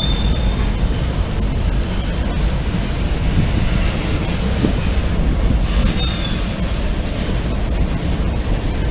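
CSX freight train's cars rolling past with a steady low rumble of steel wheels on rail. A brief high wheel squeal sounds at the very start, and a shorter one about six seconds in.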